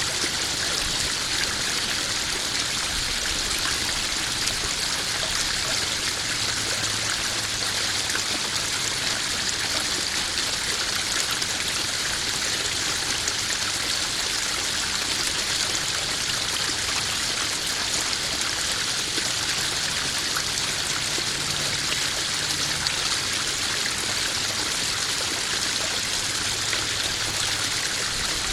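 Koi pond waterfall, water running and splashing steadily into the pond.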